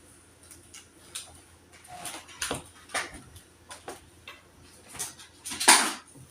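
Household objects being handled and set down: scattered light clicks and knocks, with a louder rustling clatter about five and a half seconds in.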